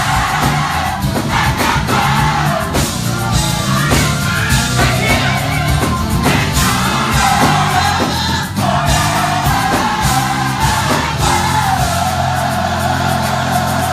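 Live gospel choir singing over a band with bass, drums and keyboard, steady and loud throughout.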